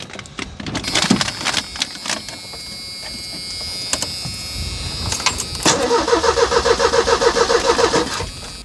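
1985 Merkur XR4Ti's 2.3-litre turbocharged four-cylinder being cranked by the starter for about two and a half seconds near the end, turning over rhythmically at about seven beats a second without catching, after a few clicks and knocks. It does not fire because the fuel pumps are not running.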